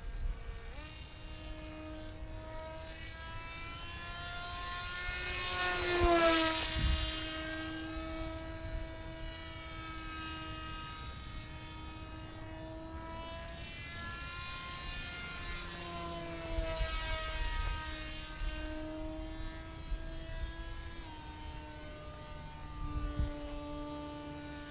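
RC F-22 model airplane's electric motor and propeller in flight: a steady whine that shifts pitch as the throttle changes. About six seconds in the plane passes close, getting louder with a rise then fall in pitch.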